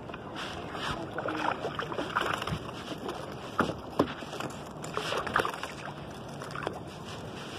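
Water sloshing against a kayak on open water, with small irregular splashes and two sharper knocks about three and a half and four seconds in.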